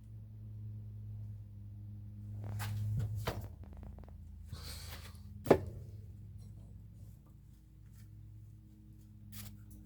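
Handling noises around an engine bay: a few sharp knocks and clicks, the loudest about five and a half seconds in, with a short rustle just before it, over a steady low hum.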